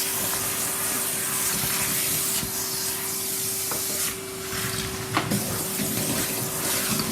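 Henry canister vacuum cleaner running with a steady motor hum, its suction rushing louder and softer as the nozzle moves over the floor. It gives a couple of sharp clicks, near the middle and again a little later.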